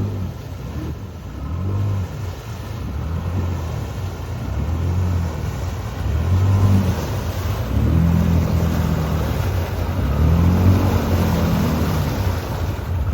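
Off-road vehicle engine revving again and again, its pitch rising and falling with each pull of the throttle, getting louder about halfway through.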